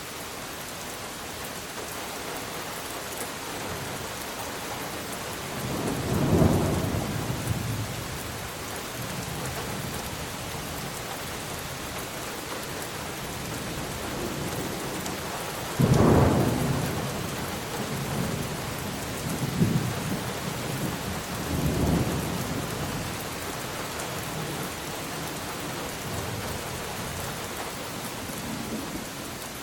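Steady rain with thunder: a rumble about six seconds in, then a sudden clap about halfway through that rolls on in low rumbles for several seconds.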